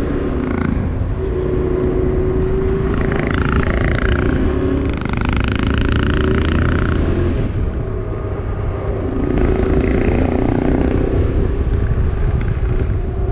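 Motorcycle engine running on the move, its note drifting up and down a little with the throttle, over a steady rumble of wind and road noise.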